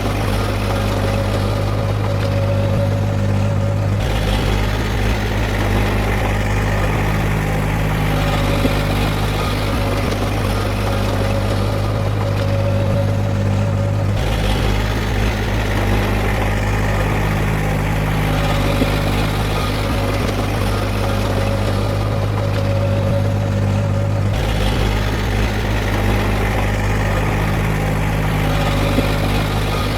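Heavy diesel earthmoving machinery running steadily with a low, constant hum. The engine note shifts abruptly three times, about every ten seconds.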